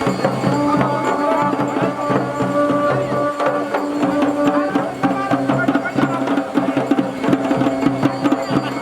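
Garhwali dhol and damau drums being beaten in a dense rhythm, with steady held melody tones over the drumming.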